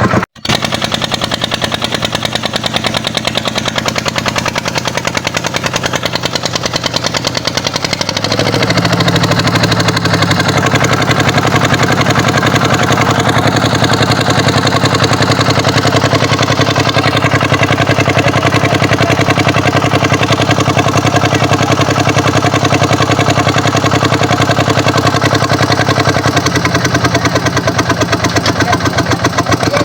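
Kubota tractor's diesel engine running steadily. It cuts out for an instant just after the start, then grows louder and heavier about eight seconds in and holds there.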